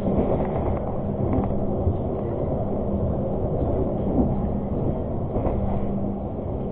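Argo Parahyangan passenger train running along the track: a steady rumble with a constant low hum and a few faint clicks.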